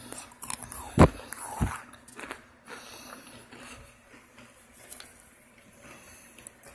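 Biting into a hard, microwave-baked Argo laundry starch chunk: a loud crunch about a second in, a second crunch just after, then smaller crunching as it is chewed.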